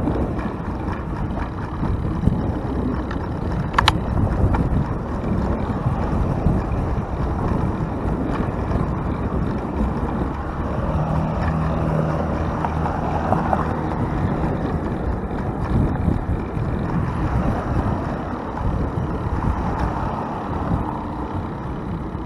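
Steady wind rush on the microphone of a camera riding on a moving bicycle, mixed with traffic noise from the road alongside. A single sharp tick about four seconds in.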